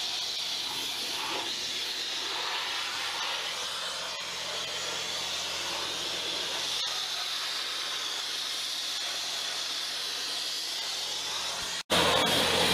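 Sandblaster blasting abrasive onto a steel truck frame: a steady hiss. It breaks off for an instant near the end, then carries on louder.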